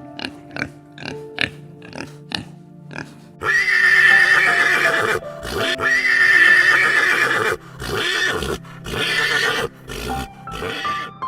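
A horse whinnying, two long loud calls a few seconds in, over light plucked background music.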